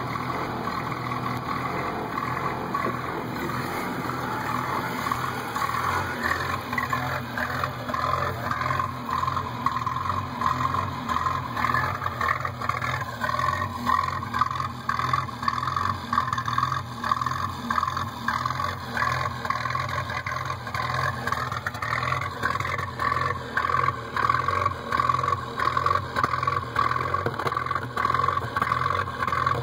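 Toyota 20R 2.2-litre four-cylinder engine idling steadily with an even exhaust pulse. It is heard first from the cab, then close to the tailpipe.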